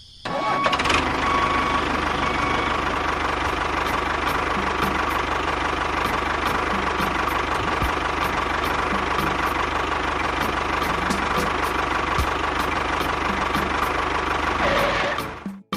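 A motor running steadily with a constant whine-like tone, switched on just after the start and cutting off abruptly near the end.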